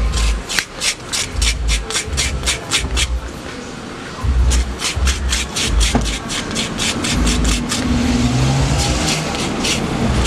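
Dried calabash shell being scraped and rubbed by hand in quick rasping strokes, about five a second, in runs with short pauses. It is the smoothing of a calabash cup. A low rumble runs underneath.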